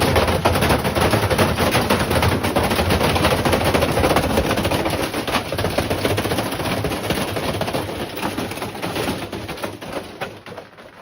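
Three bricks banging rapidly inside a spinning Samsung washing machine drum, a dense continuous hammering that dies away near the end.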